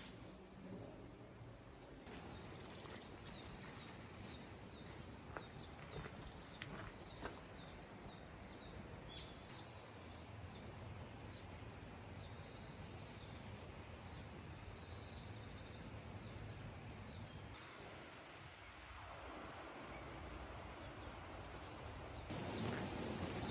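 Birds chirping in quick, repeated short calls over a faint, steady outdoor hiss. The chirping stops about two-thirds of the way through.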